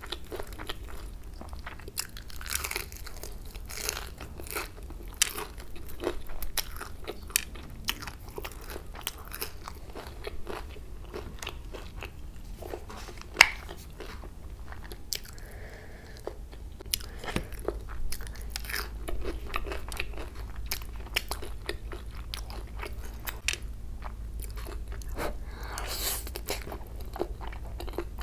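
Close-miked crunching and chewing of a crispy, crumb-coated kurkure chicken momo: many sharp crunches in an irregular stream, with one single loud click about halfway through.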